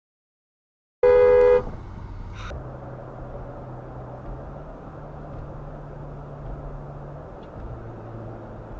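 A car horn gives one loud blast of about half a second, after a second of dead silence. Steady road and engine noise from a moving car follows, with a low hum.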